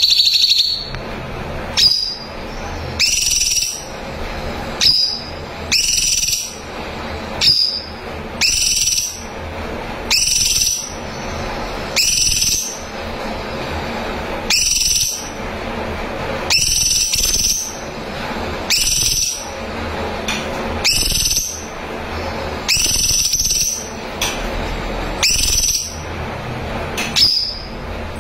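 Cucak cungkok singing: a loud, high whistled note repeated about once a second.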